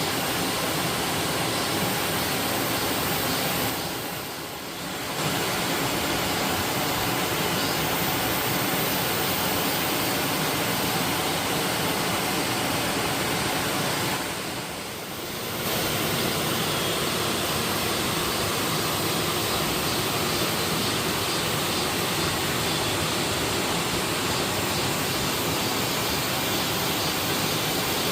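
Waterfall pouring: a steady, dense rush of falling water that dips briefly twice.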